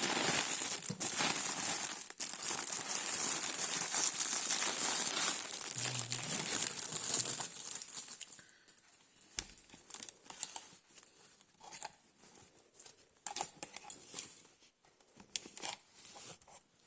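Plastic packaging crinkling and rustling as the heating pad is unwrapped and handled. After about eight seconds it drops to quieter, scattered clicks and taps of handling.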